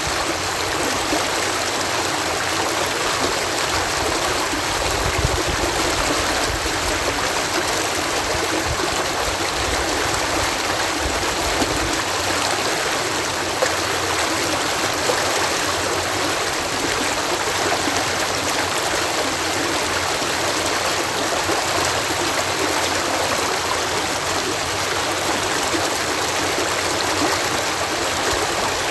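Water cascading over a canal lock, a steady rushing and splashing. A deeper rumble swells underneath for several seconds in the first half.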